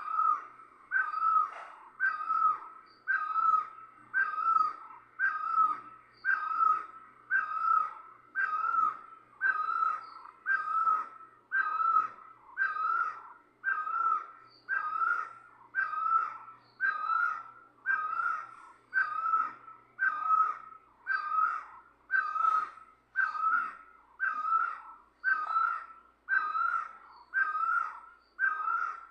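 Great barbet (nyauli) calling: a single short note that bends slightly in pitch, repeated steadily about once a second.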